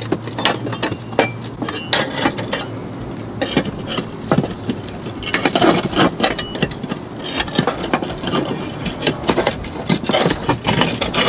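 Irregular clattering knocks and clinks of roof tiles and tools being worked by hand, with scraping in between.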